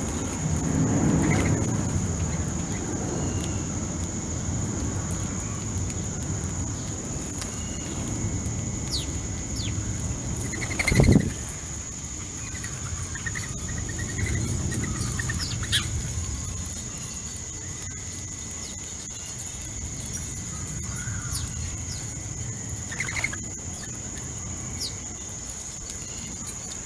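Backyard birds at a feeder giving short chirps and calls, with a louder sudden sound about eleven seconds in. Over a low outdoor rumble and a steady high-pitched whine.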